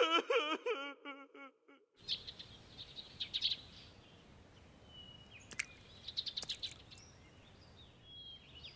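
A voice trails off in the first couple of seconds, then after a moment of silence comes an outdoor background with small birds chirping in quick runs, about two seconds in, again around six seconds, and once more near the end.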